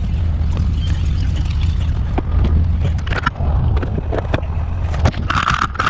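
A low steady vehicle rumble with scattered clicks and knocks over it.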